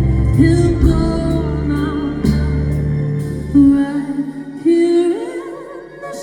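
A woman singing long, wavering notes over a band; a little past halfway the bass and band drop away, leaving the voice almost alone.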